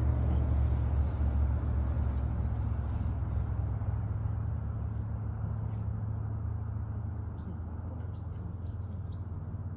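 Small birds giving short high chirps, scattered at the start and again in the last few seconds, over a steady low rumble that eases off gradually.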